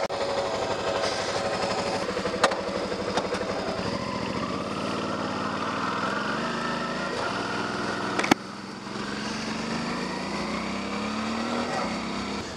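A Suzuki V-Strom 650's V-twin engine pulling away and accelerating, its note rising. About eight seconds in a sharp click comes with a shift up a gear: the note drops, then climbs again.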